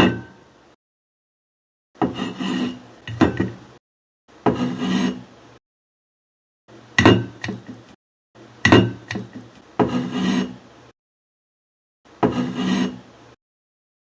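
A series of short bursts of scraping and clinking, each about a second long and cut off sharply into silence.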